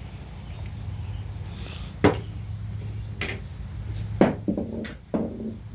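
A few sharp knocks or snaps, roughly a second apart, the loudest about two seconds in and again near four seconds, over a steady low hum.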